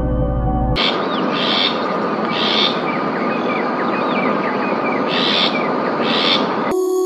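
Birds calling in the wild: many quick chirping notes and four brighter repeated calls over a steady background hiss, cut in abruptly after soft ambient music and cut off by music again near the end.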